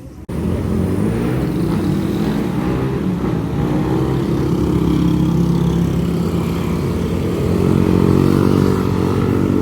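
Motorcycle engine running, its pitch wavering slowly up and down. It starts suddenly a moment in.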